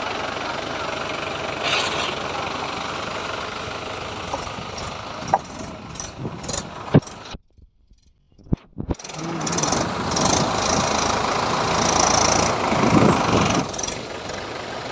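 Tractor diesel engine running, with a sudden break in the sound about halfway through. It comes back louder for several seconds, then eases off near the end.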